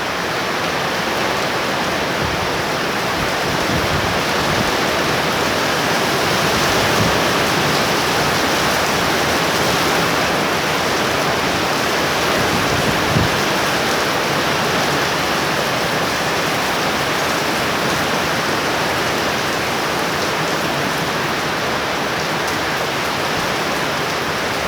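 Heavy thunderstorm rain falling in a steady downpour, with a single faint tick about halfway through.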